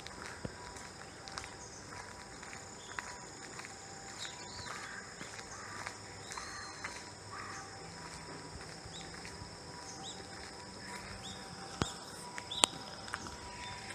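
Outdoor ambience dominated by a steady, high-pitched insect chorus, with a few short chirping calls and two sharp clicks near the end.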